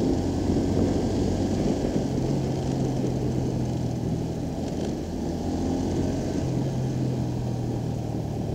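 Motorcycle engine running steadily while riding, its note shifting a little about two seconds in and again near the end.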